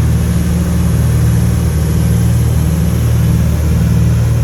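Cabin drone of a Cessna 310K's twin piston engines and propellers: a loud, steady low hum that holds even, with no change in power.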